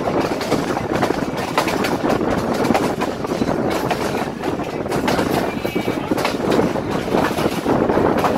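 Allama Iqbal Express passenger coaches running at speed: a steady rumble of wheels on rail with dense rattling clicks, heard from an open window alongside the coach.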